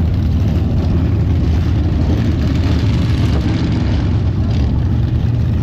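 Steady low engine rumble of heavy vehicles running, with a noisy hiss over it.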